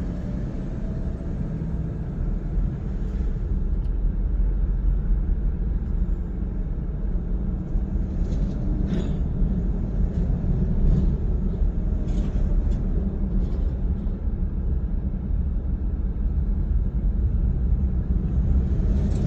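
Car driving at speed, a steady low rumble of engine and tyre road noise heard from inside the cabin.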